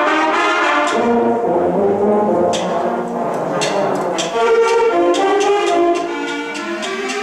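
Sixth-grade concert band playing a Christmas novelty arrangement, with brass out front over sustained band chords and sharp percussion strikes several times.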